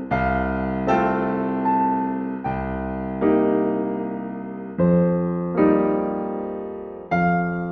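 Slow, gentle solo piano music: chords struck roughly once a second and left to ring and fade.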